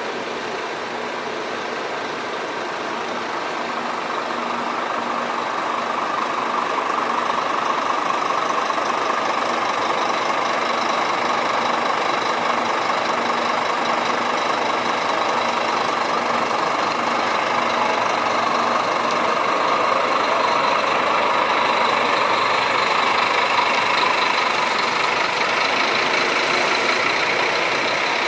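Scania coach's diesel engine idling steadily, growing somewhat louder over the first several seconds.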